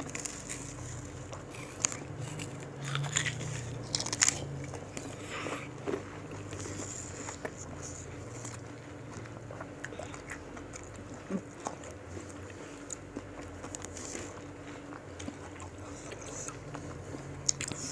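Crunchy bites and chewing of raw fruit slices dipped in rujak sauce. The sharpest crunches come in the first six seconds or so, followed by quieter chewing.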